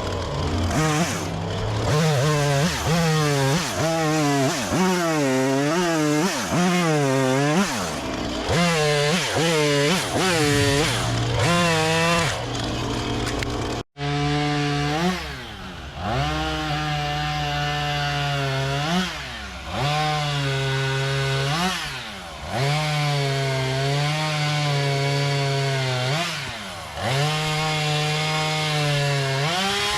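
Gas chainsaw cutting into a large tree. The engine speed swings up and down over and over while it bites into the wood, then it holds mostly steady at high speed with short throttle dips every three to four seconds.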